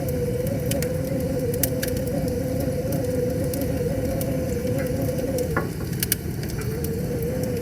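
Wood fire crackling with scattered sharp pops, the loudest cluster about six seconds in, over a steady rush of river water. A steady hum, wavering slightly in pitch, runs underneath.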